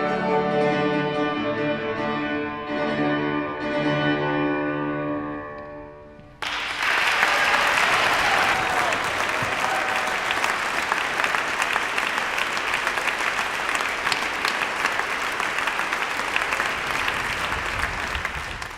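Operatic music with orchestra holding sustained chords that fade out, then, about six seconds in, an abrupt cut to a concert audience applauding steadily.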